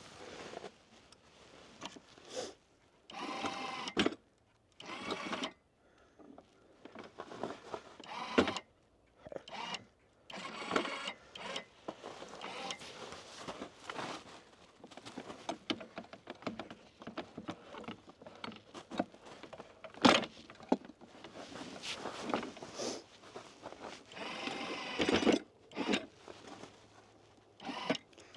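Electric hive lifter's small motor whirring in short runs of a second or two, stopping and starting, with clicks and knocks of the lifter and hive boxes being handled.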